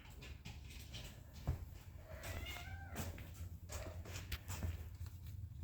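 A kitten mewing faintly: a short high call with a gliding pitch about two seconds in, among a few light clicks and knocks.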